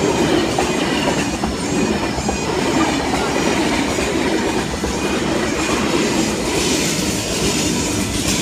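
A freight train of open box wagons, hauled by Class 66 diesel 66198, rumbling past at speed, its wheels clattering over the rail joints. Through the first three seconds a repeating high chirp sounds two or three times a second.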